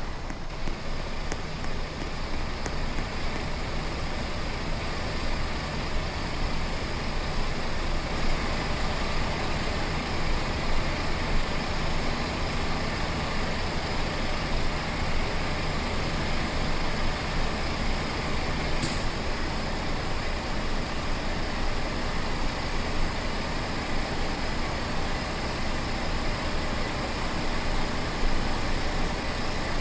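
Truck driving at a steady speed: a constant engine drone under road noise, with one brief click about two-thirds of the way through.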